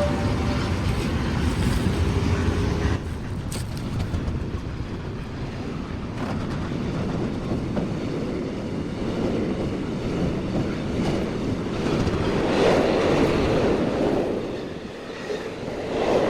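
Train running past on the track: steady wheel-on-rail noise with a few clicks, swelling again near the end.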